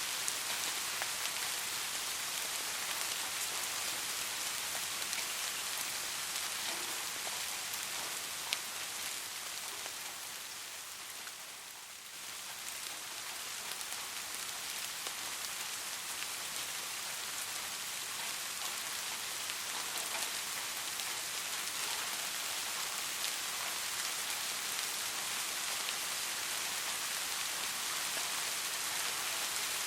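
Soft, steady rain: a dense, even hiss of falling drops, easing briefly a little before the middle and then filling back in, with one sharper drop tick about eight seconds in.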